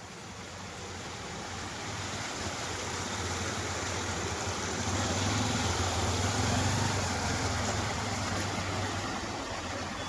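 A motor vehicle moving through floodwater on a street: engine hum with a steady swish of water, growing louder over the first six seconds or so, then easing slightly.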